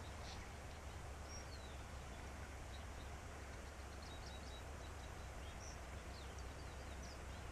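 Faint outdoor ambience: a steady low rumble with scattered faint, short bird chirps.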